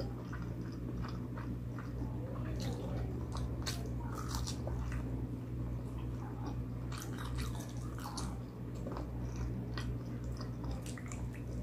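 A person chewing and biting food close to the microphone, with irregular small clicks and smacks of the mouth, over a steady low hum.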